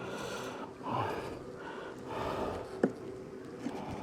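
A wooden hive frame being worked loose from a beehive box, with scraping and a sharp crack just before three seconds in, alongside short bursts of breathing.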